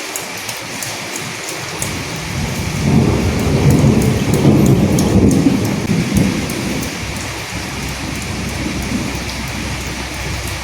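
Steady rain falling, with sharp drop ticks over an even hiss. A low roll of thunder builds a couple of seconds in, rumbles loudest in the middle and fades away.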